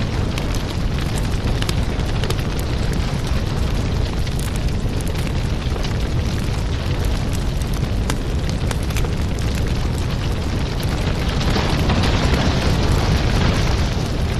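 Wood fire burning: a steady low rumble of flames with frequent sharp crackles and pops from the burning logs. The hiss of the flames swells louder about eleven seconds in.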